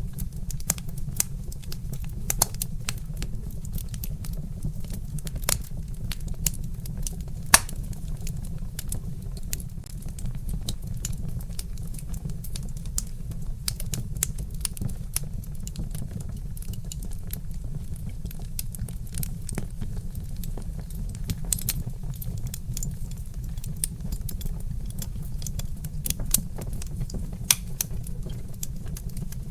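Wood fire crackling, with many irregular sharp pops and one louder snap about a third of the way in, over a steady low rumble.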